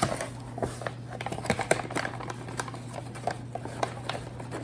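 Measuring cup scooping flour: light scrapes and small irregular clicks and taps of the cup, several a second, over a steady low hum.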